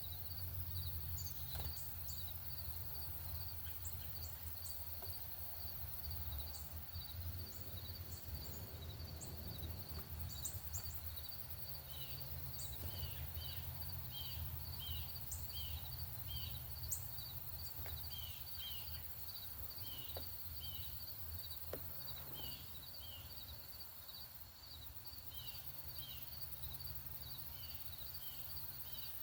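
Small birds chirping, with short falling notes repeated in quick pairs from about halfway, over a steady, evenly pulsed high insect call and a low rumble.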